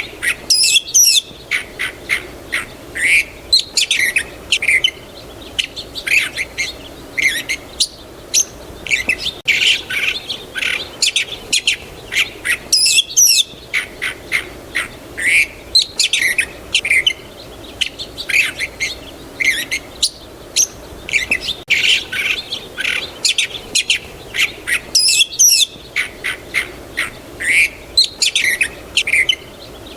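Several small birds chirping and twittering in quick, overlapping calls, with a faint steady background hum.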